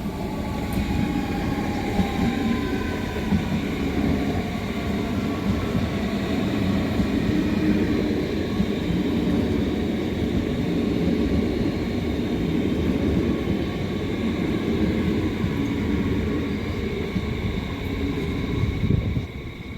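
A train running past on the tracks with a steady rumble of wheels and running gear, and a faint whine that falls slightly in pitch early on. The noise drops off suddenly near the end as the train clears.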